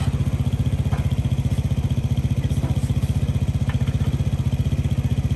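Motorcycle engine idling steadily, a fast even putter, with a couple of light clicks.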